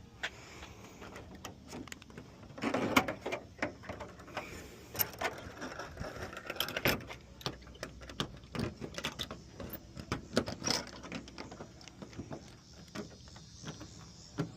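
Irregular clicks, clinks and knocks of hand tools and small metal parts being handled, with a busier cluster of knocks about three seconds in.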